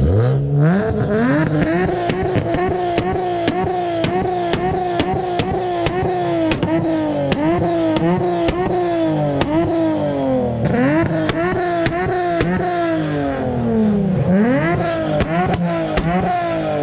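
Car engine revved hard over and over in quick blips, its pitch rising and falling about one and a half times a second, with sharp exhaust pops and crackles throughout, typical of a flame-tuned exhaust. It climbs steeply in the first second and dips lower near the end before climbing again.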